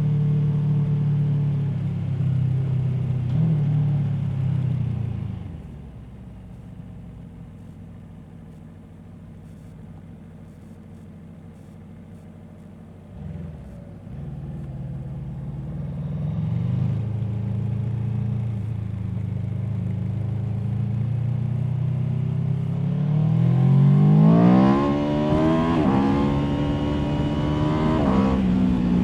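Aprilia Tuono V4 motorcycle's V4 engine, heard onboard: it runs steadily, settles into a quiet low idle for several seconds with a brief blip of the throttle, then pulls away and revs hard, its pitch climbing steeply before a drop at a gear change near the end.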